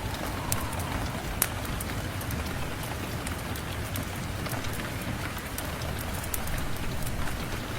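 Steady rain hiss with a low rumble, mixed with a fireplace crackling: scattered sharp pops and ticks throughout.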